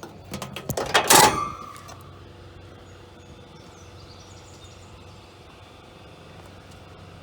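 A few light clicks and knocks, then a single loud metallic clunk with a short ring about a second in, like a latch on the car's body closing; after it only faint steady background.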